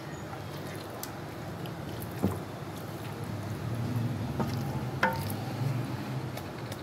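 Marinated chicken frying in oil in a large aluminium pot, stirred with a wooden spoon: a steady sizzle with the spoon scraping through the pieces, and two sharp knocks of the spoon against the pot, about two seconds in and about five seconds in.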